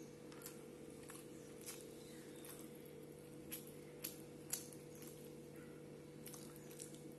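Close-up eating sounds: wet chewing and short sharp mouth smacks as rice and curry are eaten by hand, about ten in all, the loudest a little past the middle. A steady low hum runs underneath.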